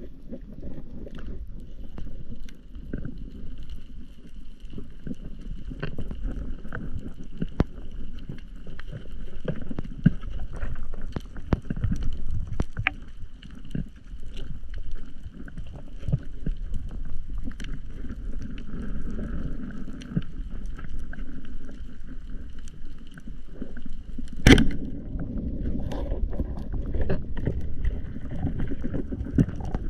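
Muffled water noise as heard through an underwater camera housing, with a steady low rumble and a scattering of faint crackling clicks. Near the end comes one sharp, loud crack.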